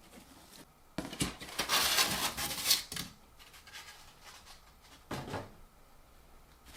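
Handling noise from parts being worked on by hand: a couple of seconds of rustling and clatter with sharp clicks starting about a second in, then a single short knock near the end.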